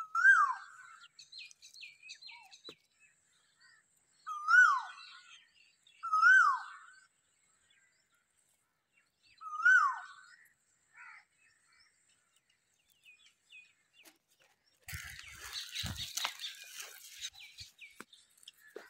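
A bird calling: four loud, short calls a few seconds apart, each rising and then dropping in pitch, with fainter chirps between them. Near the end comes about three seconds of rustling noise.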